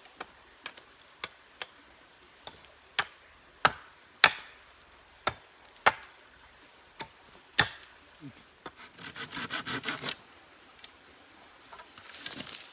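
Wood being chopped with a blade: sharp single knocks at uneven intervals, then a quick run of lighter strokes about nine seconds in, and a softer scraping near the end.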